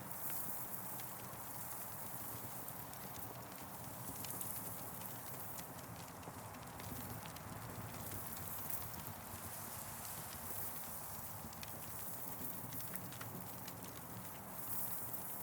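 Campfire crackling, with scattered sharp pops and snaps over a steady low hiss.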